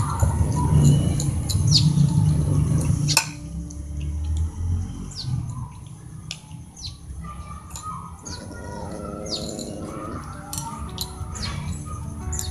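Small birds chirping: short, high chirps that sweep downward, repeated every second or so. A louder low background sound underlies them for the first three seconds and cuts off abruptly.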